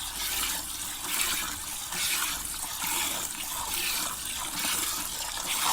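Water splashing and pouring, with soft surges roughly every half second to second.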